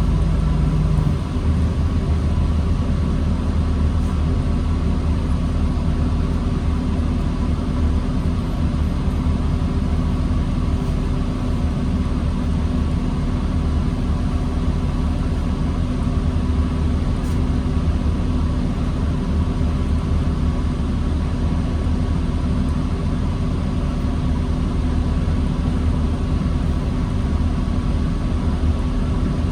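New Flyer D40LFR diesel transit bus running steadily, a low engine rumble with a steady hum; a lower tone drops out about a second in.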